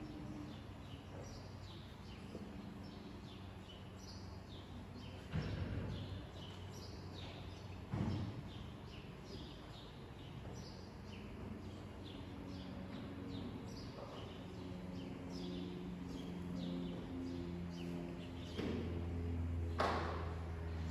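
Small birds chirping over and over in short high notes, with a few knocks, the loudest near the end, and a faint steady low tone in the second half.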